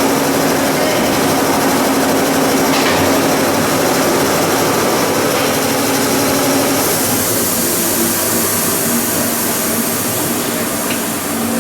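Plastic pelletizing line machinery running loudly and steadily, with a constant hum; about seven seconds in the hum fades and a higher hiss grows stronger.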